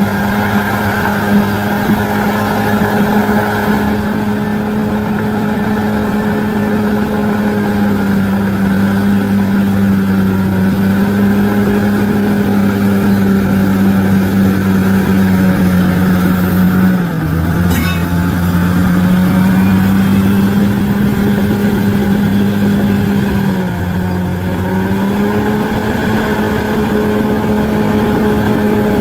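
Bulldozer's diesel engine running steadily at working speed. Its pitch sags briefly twice as it takes load, and there is a single light knock about two-thirds of the way through.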